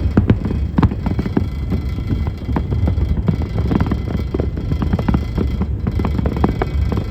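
Fireworks going off: a fast, uneven run of bangs and crackles, several a second, over a steady low rumble.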